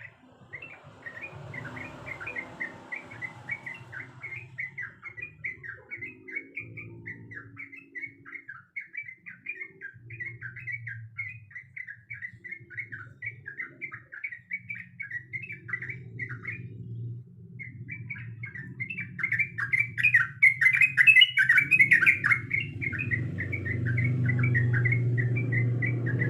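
Yellow-vented bulbul singing a long, fast run of chattering notes, with a brief pause about two-thirds through and a louder stretch after it.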